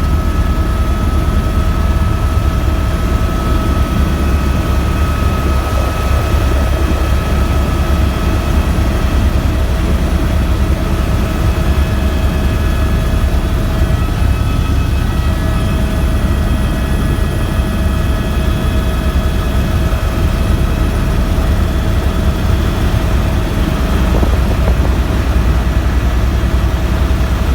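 Helicopter running steadily in flight: a loud, even low rotor drone with steady turbine whine tones above it.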